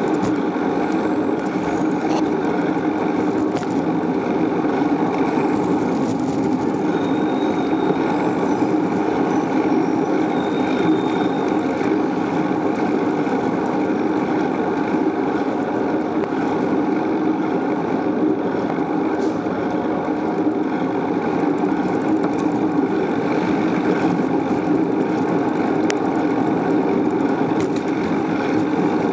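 Steady, unbroken noise of riding a bicycle along a road: rushing ride noise with traffic mixed in and no distinct events.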